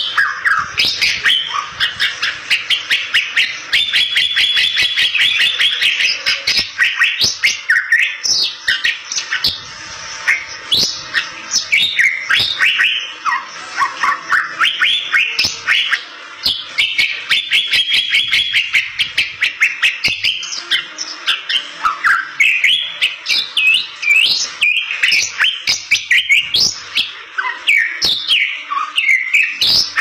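Bali myna singing loudly and without pause: a fast run of varied whistles, sweeping notes and sharp clicks, broken twice by long stretches of rapid repeated notes, about four seconds in and again at about seventeen seconds.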